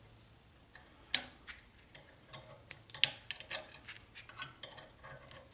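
Needle-nose pliers clicking and scraping against a small governor spring and its metal plate on a Briggs & Stratton lawnmower engine: irregular light metallic ticks, the sharpest about three seconds in.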